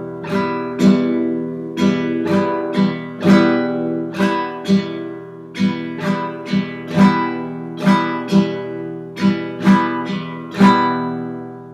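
Acoustic guitar strummed with the index finger on a held E minor chord, playing the campfire strumming rhythm slowly in an even, repeating pattern. The last chord is left ringing and fades near the end.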